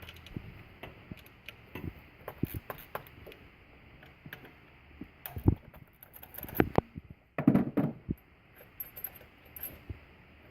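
Socket wrench clicking and metal tools clinking as the alternator bracket's 12 mm bolts are loosened. The sharp clicks come irregularly, with a louder cluster of clinks about seven and a half seconds in.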